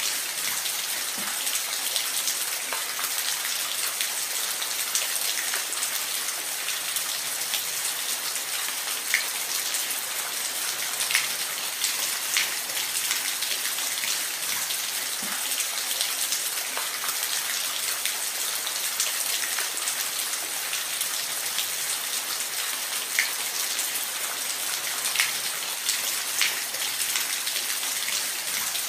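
Steady rain falling in a forest: an even hiss with individual drops ticking sharply here and there.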